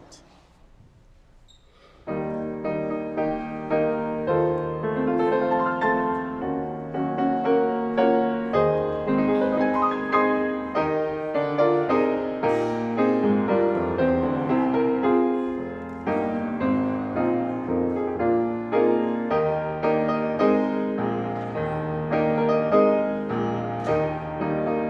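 Piano playing a slow piece in full chords, starting abruptly about two seconds in after a brief hush.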